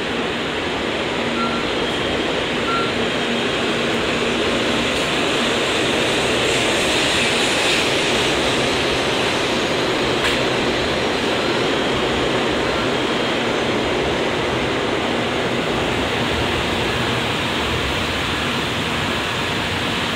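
N700-series Shinkansen train pulling out and running past the platform: a steady rushing rumble of wheels and air that swells about seven seconds in, then eases a little.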